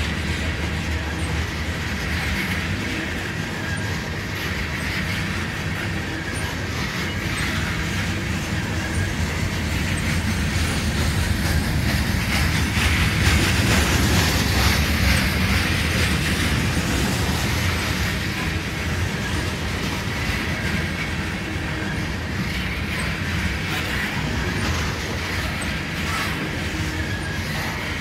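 Coal hopper cars of a freight train rolling past close by: a steady rumble with clatter of wheels over the rail joints, and a high wheel squeal that swells and fades now and then.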